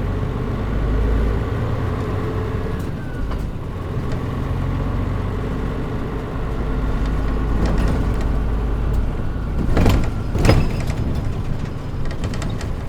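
Inside a Mitsubishi Fuso Aero Star (KL-MP37JM) city bus under way, with the air conditioning off: its diesel engine runs with a steady low hum, and the engine note shifts a few times. About ten seconds in there are two short, loud noises half a second apart.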